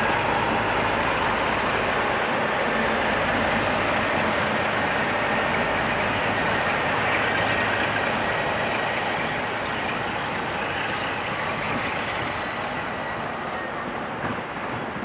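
Locomotive-hauled trains passing close by: a steady rush of engine and wheel-on-rail noise that grows a little quieter over the last few seconds.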